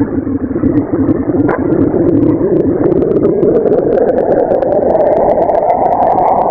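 A rushing, rumbling drone presented as the sound of a hypothetical moon, rising slowly and steadily in pitch, with scattered faint crackles over it.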